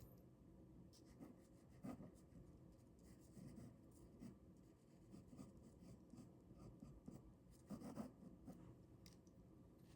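Ballpoint pen drawing on paper: faint scratching in short, irregular strokes, a little louder about two seconds in and again near the end.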